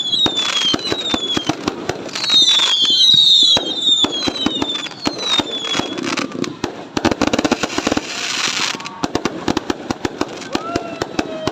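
Fireworks going off: a rapid stream of crackling pops and bangs, with several descending whistles in the first half. About seven seconds in comes a hissing burst lasting a couple of seconds, then the popping carries on densely.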